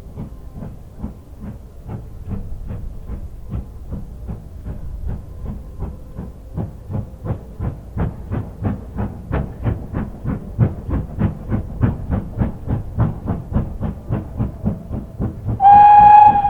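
Steam locomotive working hard, its exhaust beats coming about three a second and growing louder and slightly quicker. A steam whistle sounds near the end.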